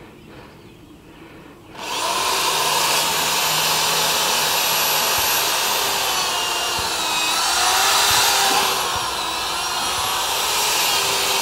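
Electric power drill starting about two seconds in and running continuously at high speed, a steady whine whose pitch wanders slightly as it bears on the work.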